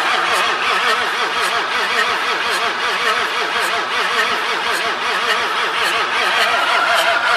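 BMW E34 525tds's M51 straight-six turbodiesel, running on a mechanical injection pump from a 2.4 TD, runs steadily after its engine replacement. Rapid even diesel pulses sound under a wavering tone.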